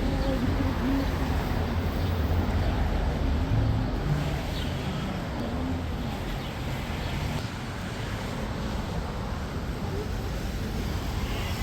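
Outdoor city street ambience: a steady low rumble of traffic under an even noise haze, with faint distant voices in the first few seconds.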